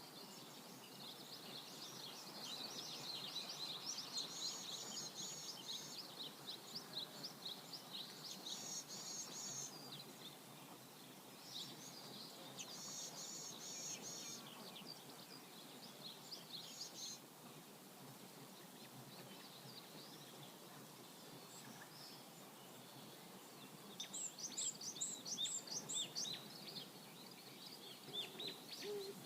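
Steady rush of a flowing river, with birds chirping and trilling over it in several bursts of quick high notes, busiest in the first half and again near the end.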